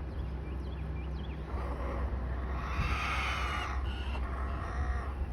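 Backyard hens making soft, low calls while dust bathing, strongest from about a second and a half in to about four and a half seconds, over a steady low rumble.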